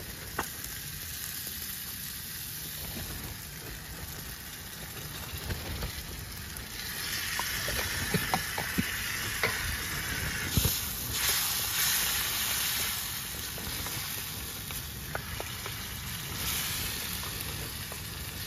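Onions and spices frying in a wok on a camping gas stove, sizzling steadily, with a wooden spatula stirring and clicking against the pan. The sizzle grows louder in the middle.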